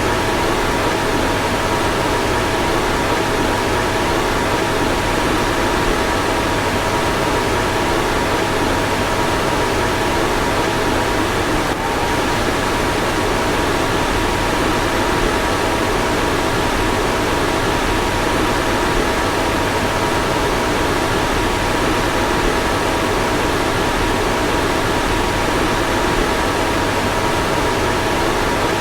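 Car fan running steadily: an even rush of air with two faint steady tones over it, and a brief hitch about twelve seconds in.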